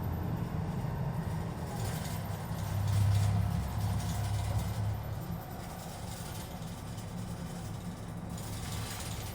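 Keisei city bus engine and running noise heard inside the passenger cabin: a low rumble that builds and pulls harder about three seconds in, then eases to a steadier, quieter drone.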